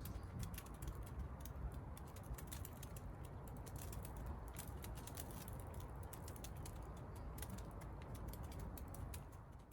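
Wood campfire crackling: irregular sharp pops and snaps over a low steady rumble, fading out at the end.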